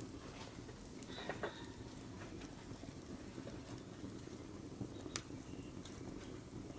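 Firewood burning in a brazier, crackling with scattered sharp pops, the loudest about five seconds in. A short high-pitched squeak or chirp sounds about a second in.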